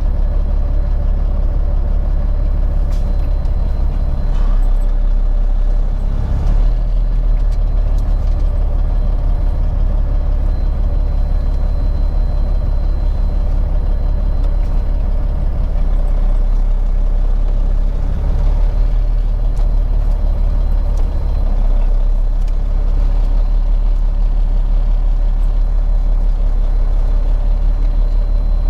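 Peterbilt 379 semi-truck's diesel engine running at low speed while the truck is maneuvered to back into a loading spot, its low drone shifting up and down a few times as the throttle changes.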